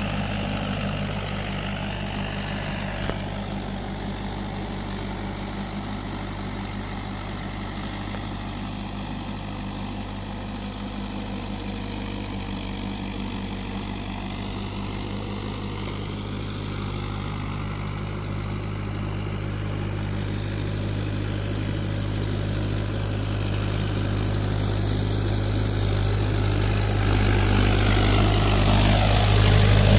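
Mahindra tractor's diesel engine running steadily with a low hum, growing louder over the last several seconds.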